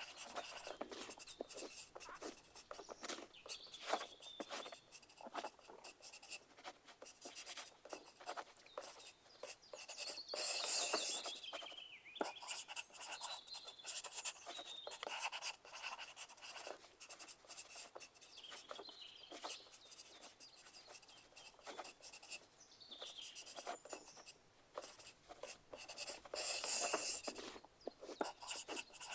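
Pencils writing on paper: a steady run of short scratching strokes and taps, with two louder stretches of fast scribbling, about ten seconds in and near the end.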